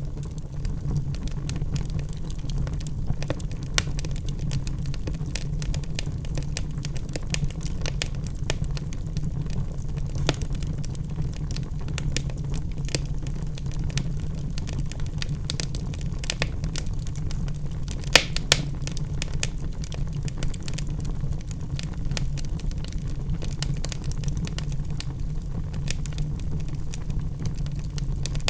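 Wood fire burning in a fireplace: a steady low rumble of flames with irregular sharp crackles and pops from the burning logs, two louder pops about two-thirds of the way through.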